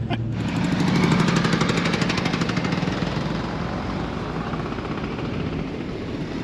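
Car engine held at high revs during a burnout, its exhaust note coming in a rapid, even pulsing. It starts suddenly, is loudest about a second in, and then slowly eases off.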